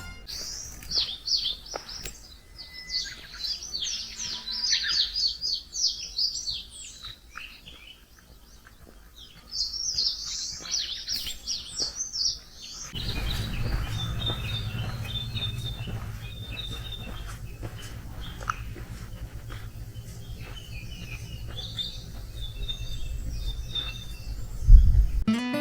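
Wild songbirds singing: for about the first half, quick, high, sweeping warbled phrases. After an abrupt change, fainter repeated chirps sound over a steady low rumble, with a single loud thump near the end.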